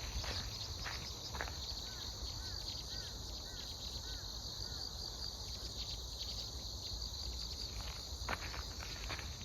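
A steady high chorus of autumn grass insects such as crickets, with footsteps on a path near the start and again near the end. A few faint short chirps come in the middle.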